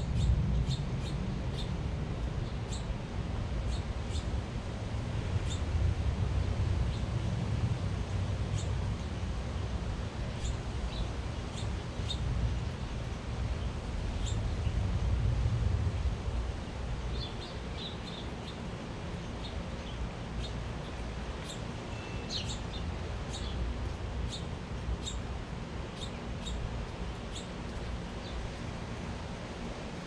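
Small birds chirping, short high calls repeated every second or so, with a flurry of quicker calls past the middle. A steady low rumble underneath is louder in the first half.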